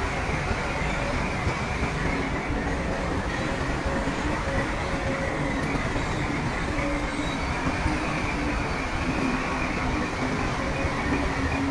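Crawler bulldozer at work: its diesel engine runs steadily under load over the grinding clatter of its steel tracks.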